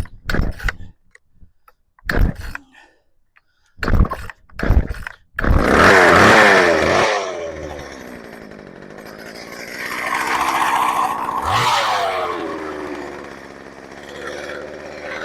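Old Craftsman 2.3 two-stroke chainsaw being pull-started, with the choke newly set right. A few quick rips of the starter cord, then it catches about five seconds in and runs. It revs high, drops back toward idle, and revs up again twice.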